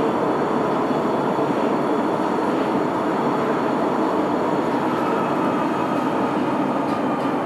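Sapporo Municipal Subway Namboku Line 5000 series train running in the tunnel, heard from inside the car: the steady, dense running noise of its rubber-tyred wheels on the guideway. A faint steady whine comes in about five seconds in.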